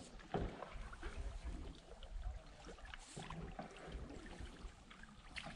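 Faint water sounds of a canoe being paddled on a river: a few soft paddle splashes and drips over a low rumble.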